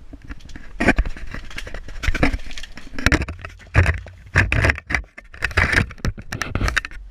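Irregular handling noise from tools being moved and set down: a series of loud scrapes and knocks, about a dozen in all, that stop abruptly near the end.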